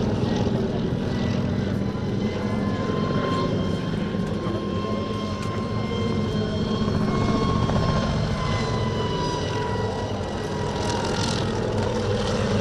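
Kamov Ka-26 coaxial-rotor helicopter flying a display, its engine and contra-rotating rotors running steadily with a whine that dips slightly in pitch in the second half.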